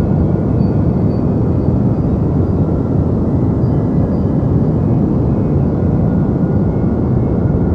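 Deep white noise: a steady, even hiss weighted toward the bass, like a low roar, with no change in level or pitch.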